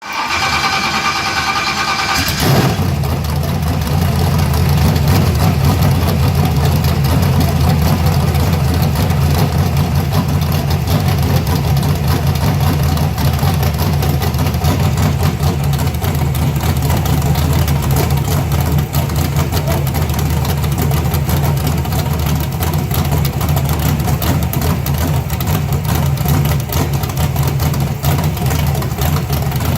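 Engine turned over by the starter motor's whine for about two and a half seconds, then firing and settling into a steady idle: its first start in five years on a new setup.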